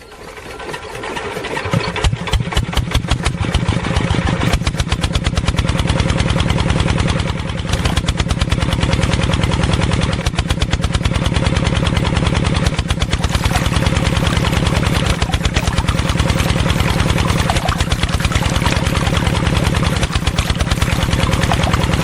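An engine starts up and runs with a fast, even chugging beat. It builds over the first couple of seconds, then holds steady, with small dips in level now and then.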